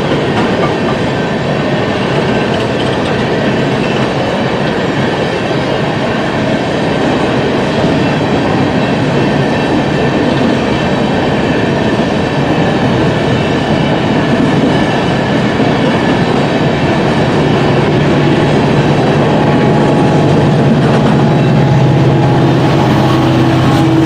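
A freight train's cars rolling past with a steady rumble and clatter of wheels on the rails. In the last few seconds a steady diesel engine drone rises under it.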